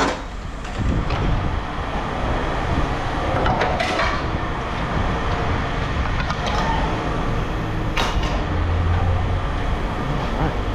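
Steady low rumble with two sharp knocks, about four and eight seconds in.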